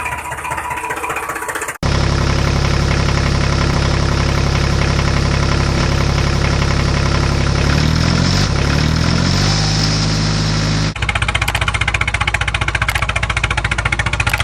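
Engine running, in spliced clips: a steady drone that wavers in pitch about eight seconds in, then cuts abruptly to a faster, rapidly pulsing engine sound about eleven seconds in.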